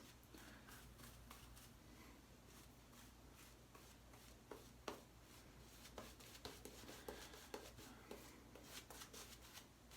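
Near silence, with the faint scratch of a single-edge razor scraping stubble and a scatter of soft short ticks in the second half.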